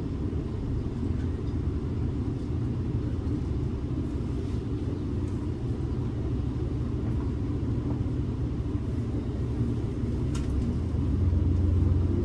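Interior of a city bus in motion: a steady low engine and road rumble, with a light click about ten seconds in and the low rumble growing louder near the end.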